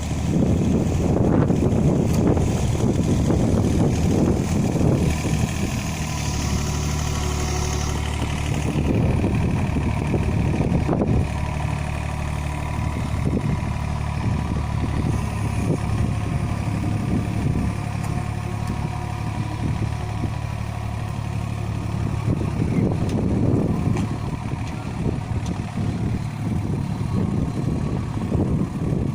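Yanmar ViO35-3 mini excavator's diesel engine running steadily while the machine works. Rougher, noisier stretches come near the start, again around a third of the way in, and again later on.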